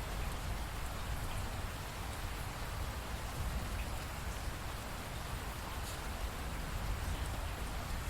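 Steady rain falling, a continuous even hiss with a low rumble beneath and faint scattered drop ticks.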